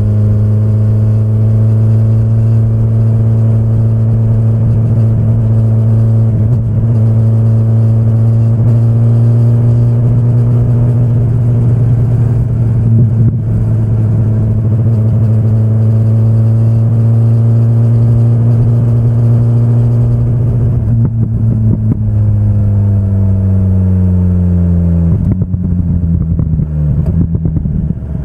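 A 2025 BMW S1000RR's inline-four engine running at a steady engine speed, then easing off about 22 seconds in, and dropping near the end to a lower, uneven running.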